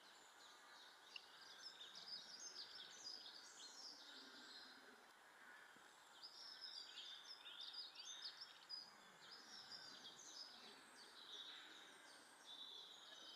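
Faint twittering of small songbirds: many short, quick chirps in rapid succession, coming in spells, with a lull around the middle and again near the end.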